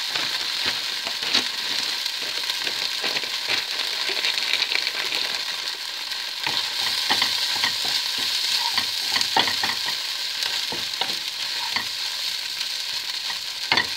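Crumpet pieces and grated mozzarella frying in oil in a frying pan: a steady sizzle with many small crackles and pops, and a wooden spoon stirring them through the pan near the end.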